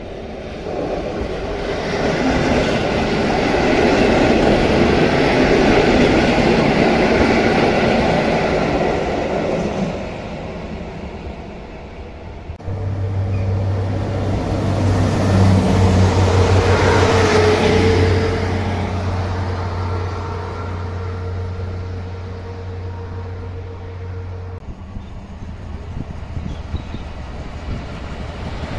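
Trains passing through a station, in three cuts. First an EN57AKŚ electric multiple unit running along the rails, loudest about four to eight seconds in; then, about thirteen seconds in, an SA133 diesel railbus passing close with a steady engine drone, its wheel noise swelling midway; then, near the end, an SU160 electric locomotive with its passenger train approaching, more quietly.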